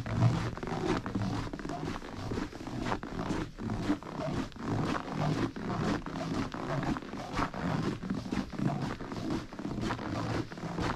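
Waterfall roaring, a continuous rush of falling water that surges and dips unevenly.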